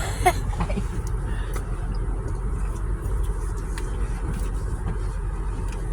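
Steady low rumble heard inside a car's cabin, typical of the car's engine idling, with a few faint ticks.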